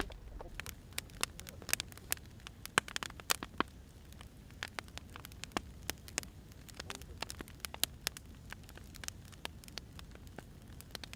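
Firewood burning, crackling with irregular sharp pops over a low, steady rumble.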